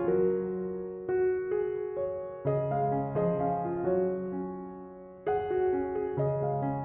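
Background piano music: slow notes and chords, each struck and left to ring away.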